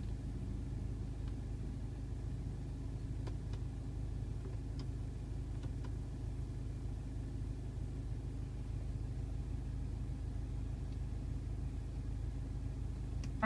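Car engine idling steadily, heard inside the cabin as a low, even hum, with a few faint clicks.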